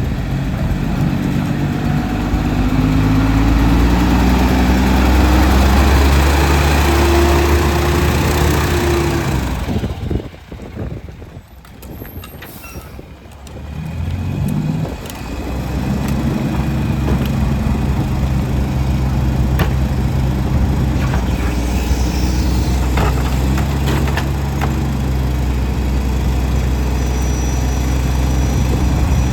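Garbage truck's diesel engine revving up over several seconds. It drops away briefly about ten seconds in, then runs again at a steady speed with scattered knocks and clanks.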